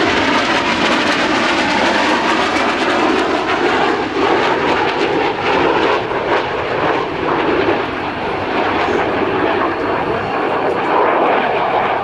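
F-117 Nighthawk's twin General Electric F404 turbofans roaring steadily as the jet makes a flyby, the pitch sliding down near the start as it passes.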